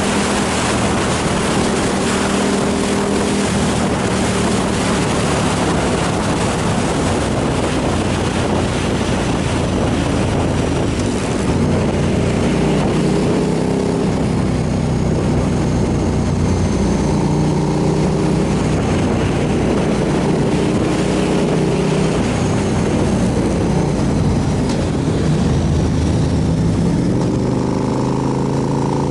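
Motorcycle engine running under way with wind rush, its pitch shifting with throttle and rising near the end as the bike accelerates.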